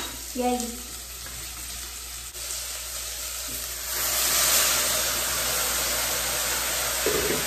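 Blended onion poured from a blender jar into a pot of calabresa sausage frying in hot oil. The pot sizzles faintly at first, then about four seconds in the purée hits the hot oil and it breaks into a loud, steady sizzle as steam billows up.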